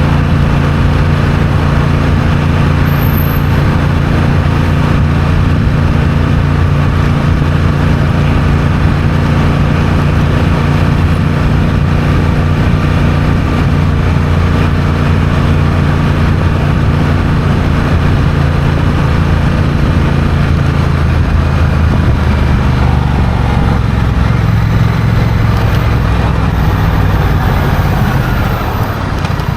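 Honda CMX1100 Rebel's parallel-twin engine running steadily under way, with road and wind noise. The engine note falls near the end as the bike slows.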